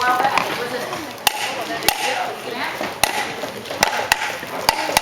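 Hammer driving a nail into wood: about six sharp strikes at an uneven pace, over a murmur of voices.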